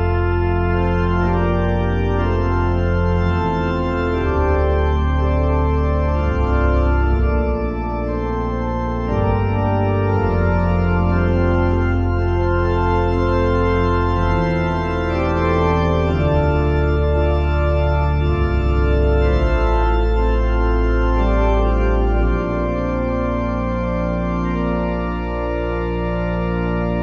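Organ playing slow, sustained full chords over deep bass pedal notes, the harmony moving every second or two.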